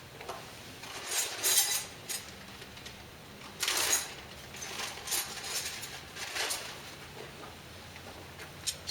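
Hand wrench and metal parts clinking and scraping as the alternator's fastenings are worked loose on the engine, in short irregular bursts with a couple of sharp clicks near the end.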